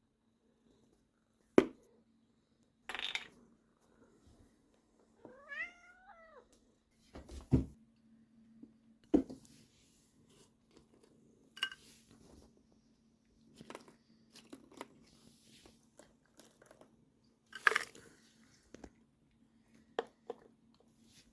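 Sacred Birman cat giving one drawn-out meow, rising then falling in pitch, about five seconds in, a cat begging for food. Scattered sharp clicks and knocks come before and after it, with a faint steady hum under the second half.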